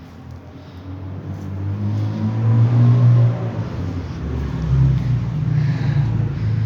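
A motor vehicle's engine running nearby, growing louder over the first three seconds and staying loud, a low steady hum.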